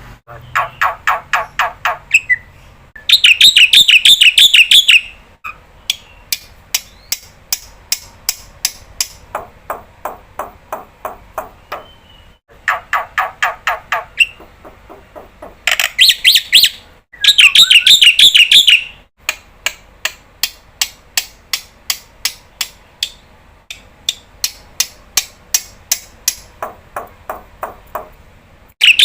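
Black-winged myna (jalak putih) in full loud song: runs of sharp repeated notes, about four or five a second, broken twice by very loud harsh chattering bouts a couple of seconds long, with another starting at the very end.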